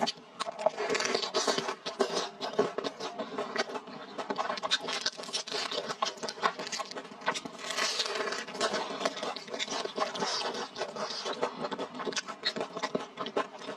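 Close-miked chewing and wet mouth sounds of a person eating spicy fried rice noodles and a fried spiral potato, with many quick smacks and clicks.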